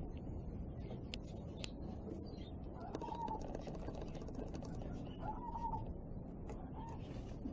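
Aviary birds calling: a dove coos three times, each coo short and fairly level in pitch, among scattered thin, high chirps from small birds, over a steady low background noise.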